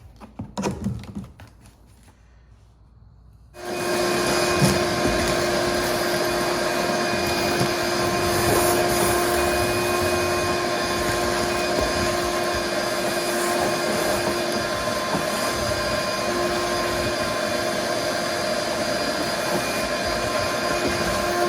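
A few light clicks and scrapes, then about three and a half seconds in an electric motor switches on and runs at a steady speed with a constant whine.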